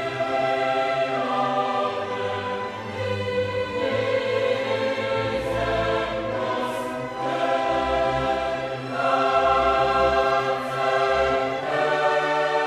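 Background choral music: a choir singing long held chords with orchestral accompaniment, the chords changing every few seconds.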